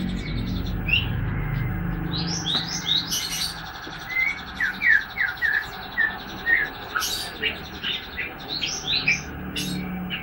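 A young white-rumped shama, about three months old and still in speckled juvenile plumage, singing a loose run of short chirps and whistled notes, some sliding up or down in pitch. This is a juvenile just beginning to sing out.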